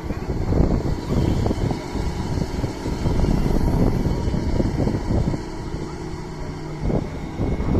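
Doosan DX225 excavator's diesel engine running as the machine works, its loudness swelling and easing. There is a quieter, steadier stretch a little past the middle before it picks up again near the end.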